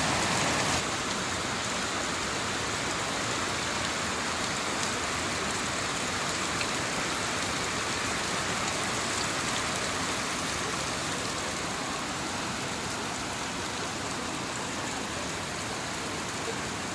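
Heavy rain falling, a steady even hiss that drops a little in level about a second in.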